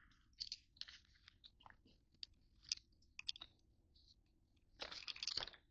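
A sheet of paper being handled and looked over: faint scattered crinkles and ticks, with a louder rustle a little before the end.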